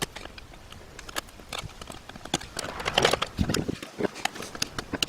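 Irregular metal clicks and taps of a hand tool working at small circlips on an e-bike hub motor clutch, busier about halfway through.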